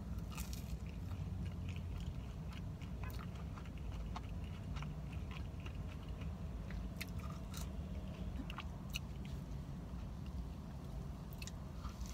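Close-up biting and chewing of a bacon, egg and cheese croissant sandwich: soft crunches of flaky pastry and scattered wet mouth clicks, over a steady low hum.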